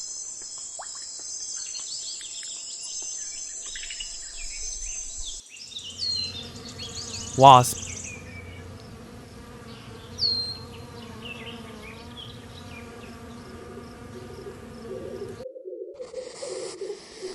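A wasp buzzing: a steady low drone with a clear pitch that starts with a cut about five seconds in and stops abruptly near the end. Before it comes a high, steady chirring of insects.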